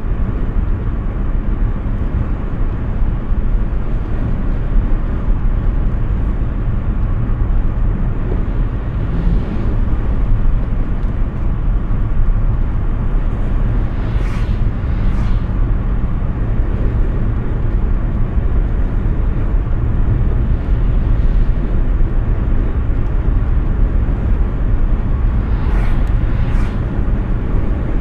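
Steady low road and wind noise from a Hyundai Ioniq 6 electric car driving at speed: tyre rumble and wind with no engine sound. A few brief swishes rise above it, around ten, fifteen and twenty-six seconds in.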